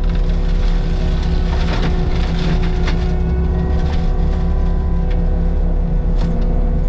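Diesel engine of a compact Caterpillar machine idling steadily while warming up, with scattered clicks and knocks over it, mostly in the first half.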